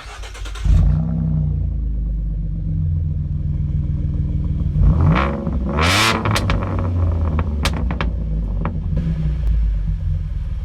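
Ford Mustang exhaust through an SLP LoudMouth center-section pipe, the engine running with a deep, steady note that comes in abruptly about a second in. Around five seconds in the engine is revved, rising and falling in pitch, and a few sharp clicks follow.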